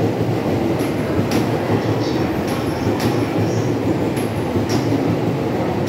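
JR East E231 series 0 commuter train pulling out of the platform, its cars rolling past with a steady rumble of wheels on rail and several sharp clicks from the track.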